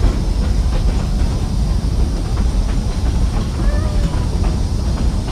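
Narrow-gauge passenger train rolling along the track, a steady low rumble heard from aboard the car, with a faint voice partway through.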